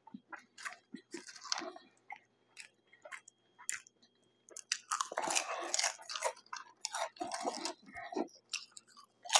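Close-miked chewing of a sandwich, then crisp crunching of potato chips that grows dense from about four and a half seconds in.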